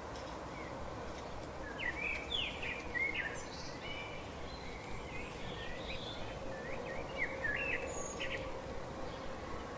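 Small birds chirping in short, quick calls, in scattered bunches, over a steady background hiss with a faint hum.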